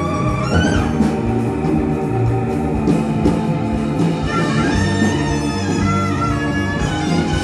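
Live fusion band playing: a sustained lead melody that slides and bends in pitch over a steady bass-and-keyboard accompaniment, with a few drum hits.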